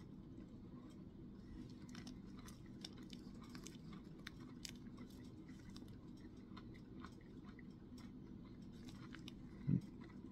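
A person chewing a bite of a chewy oat granola bar with dark chocolate chunks: faint, irregular soft crunching and small clicks of the mouth. A short low thump comes near the end.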